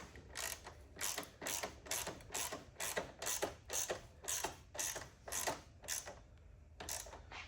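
Hand ratchet wrench clicking in quick back-and-forth strokes, about three clicks a second, while shock mounting hardware is turned. The clicking stops about six seconds in, with one more click near the end.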